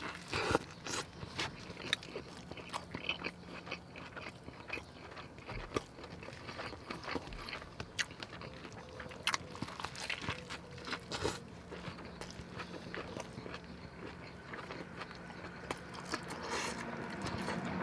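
A big bite into a pastrami burger, then chewing the mouthful, heard as many short, irregular clicks.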